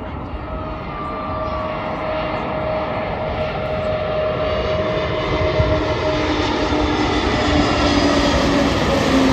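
Jet airliner's engines, a steady rushing noise growing gradually louder as the aircraft approaches, with a few faint whining tones slowly falling in pitch.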